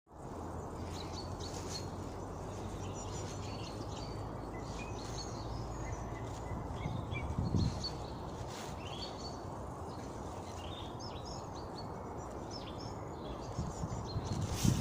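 Several small songbirds chirping and singing in short phrases throughout, over a steady low background rumble. There is a low thump about halfway through and a few more near the end.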